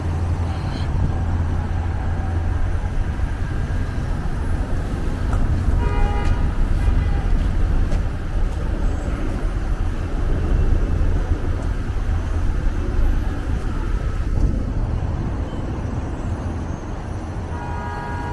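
City street traffic: passing vehicles and a steady low rumble, with a short pitched sound about six seconds in.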